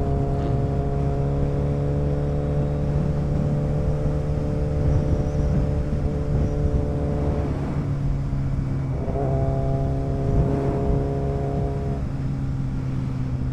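Motorcycle engine running at a steady speed under wind and road noise. Its higher tones drop out for about a second and a half in the middle, then come back.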